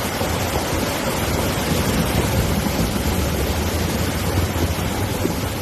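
Floodwater rushing in a steady, loud wash of noise, with wind buffeting the microphone as a low rumble.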